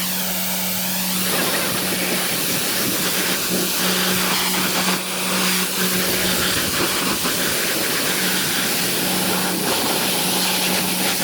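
High-pressure washer spraying water, a loud steady hiss over the steady hum of the washer's motor and pump, which drops out briefly a few times.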